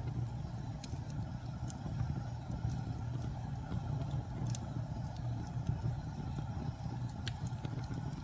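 Wood fire burning in a fireplace: a steady low rumble from the flames, broken by a few sharp, scattered crackles and pops.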